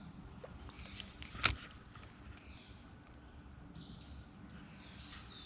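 Birds chirping and calling outdoors, with a short rising call near the end. A single sharp click about a second and a half in, with a couple of fainter ticks just before it.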